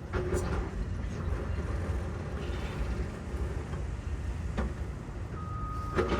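Steady low rumble with a few sharp knocks, and a vehicle's reversing alarm starting to beep near the end.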